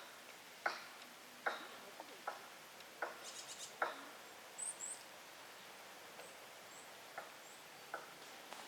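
Footsteps walking at a steady pace, a short crunch or tap about every three quarters of a second, pausing for a few seconds and then two more steps near the end.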